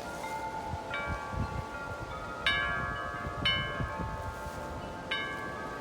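Metal wind chimes blown by gusting wind, struck in four clusters that each ring on in several overlapping tones. Wind buffets the microphone with a low rumble underneath.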